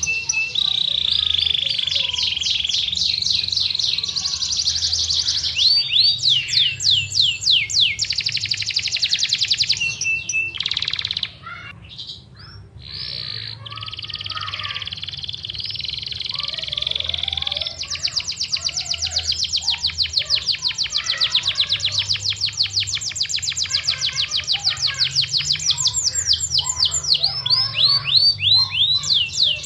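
Yorkshire canary singing a long, continuous song of rapid trills and rolling notes, with a brief break about eleven seconds in.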